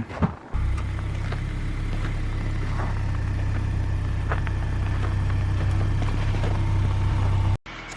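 Car engine idling: a steady low hum that cuts off suddenly near the end.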